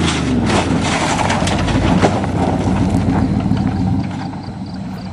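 1988 Chevrolet pickup truck running and moving off, its engine note mixed with knocks and rattles from the body, fading after about four seconds.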